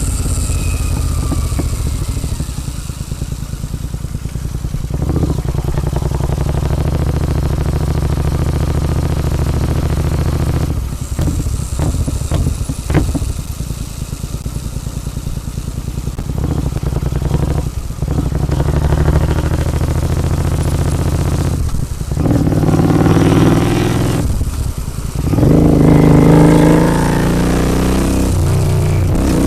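Royal Enfield Continental GT 650's parallel-twin engine, fitted with a Red Rooster aftermarket exhaust, running under way. The throttle shuts off briefly several times, then the engine revs up with rising pitch near the end.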